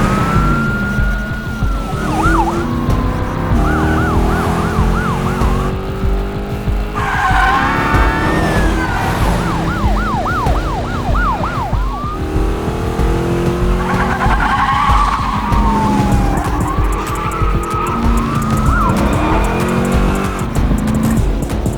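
Car chase sound mix: car engines revving hard and climbing again and again as they shift up, with high, wavering squeals over them and a low music score underneath.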